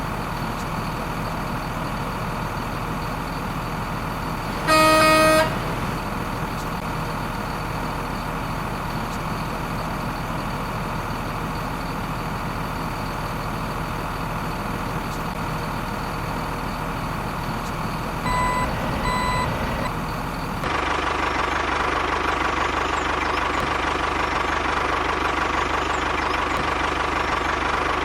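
A vehicle engine runs steadily, with one loud horn honk about five seconds in and two short beeps near the two-thirds mark. Shortly after the beeps the engine sound changes to a louder, steadier running note.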